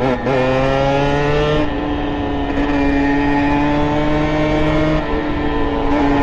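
Beta RR two-stroke moped, fitted with a 70cc Airsal kit and a handmade SCR Corse exhaust, running under way. Its engine note climbs over the first second and a half, then holds a nearly steady pitch.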